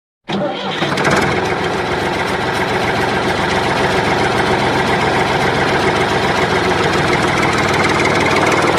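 An engine running steadily at a constant speed, starting abruptly just after the start.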